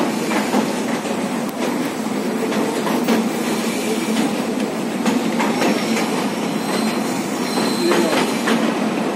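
Train running along the track onto a railway bridge: a steady rumble and rattle of wheels on rail with irregular clacks, and faint high-pitched wheel squeal in the second half.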